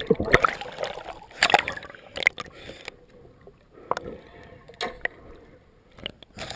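Water splashing and sloshing unevenly, with a string of sharp separate splashes or knocks.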